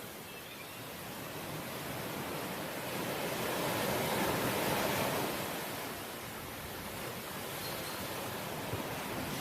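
Sea waves washing ashore: a steady rush of surf that swells to a peak a few seconds in and then eases off.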